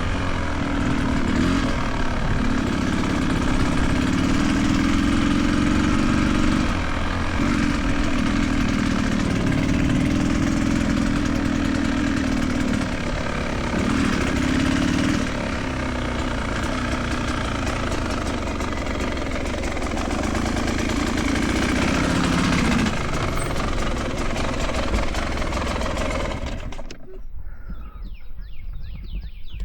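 A vehicle engine running steadily. Near the end the sound turns quieter and muffled, with the high end gone.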